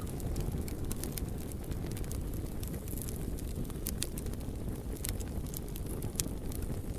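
Wood fire burning: a steady low rushing sound with scattered sharp crackles and pops throughout.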